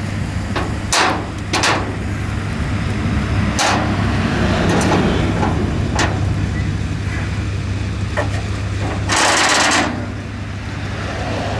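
A vehicle engine idling steadily, with several sharp metal clanks and a brief loud hiss about nine seconds in.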